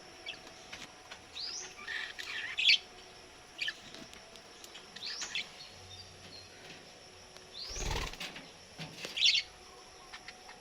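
Budgerigars chirping in short, scattered calls, with a brief louder noise about eight seconds in.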